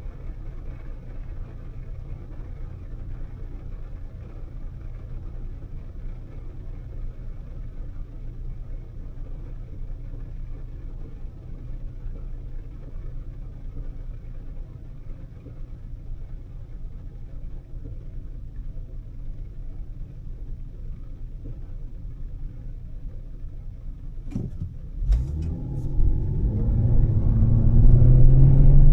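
Volvo S60 T6's turbocharged straight-six with a Heico aftermarket exhaust, a steady low rumble while cruising. Near the end, after a couple of sharp clicks, the engine is accelerated hard and its note rises in pitch and grows much louder.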